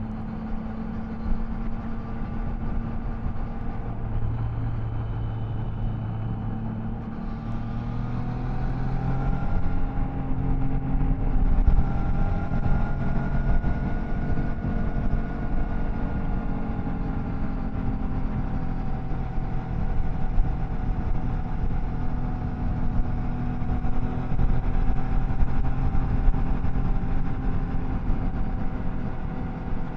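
Triumph Tiger Sport 660's three-cylinder engine and exhaust heard from the rider's seat under way. The engine note climbs as the bike accelerates about eight seconds in, then settles into a cruise with the pitch rising and falling gently, over a rush of wind and road noise.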